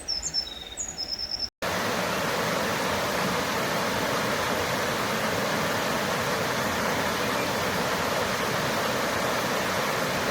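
Steady rush of river water, an even hiss that does not change, starting abruptly about a second and a half in. Before it, a small bird chirps briefly over quieter background.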